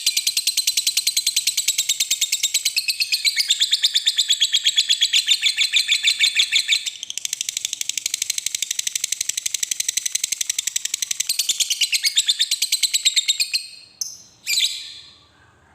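Lovebird 'ngekek' song: a long, unbroken run of rapid, high, sharp chattering notes, about ten a second. It breaks off near the end, followed by a couple of short calls.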